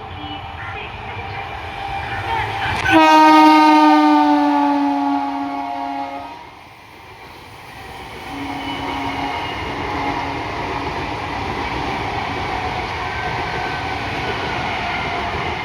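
Indian Railways train horn: one long, loud blast lasting about three seconds, its pitch sagging slightly, then a short second blast a few seconds later, over the steady running noise of the train passing on the track.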